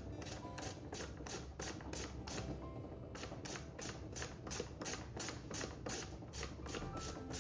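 Raw potato being rubbed down a metal grater in steady strokes, about three rasps a second.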